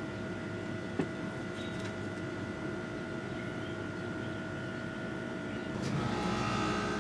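Steady machine-like hum with a couple of held tones and one sharp click about a second in; the hum grows louder and fuller near the end.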